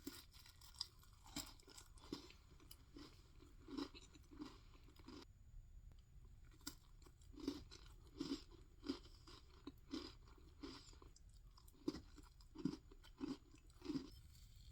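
Close-miked chewing of soft Japanese cheesecake: moist mouth and chewing sounds in a steady rhythm of about one and a half a second, with a pause of about a second some five seconds in.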